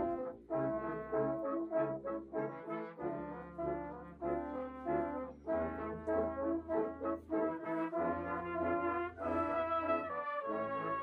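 Brass band playing: held chords that change every second or so over a low bass line.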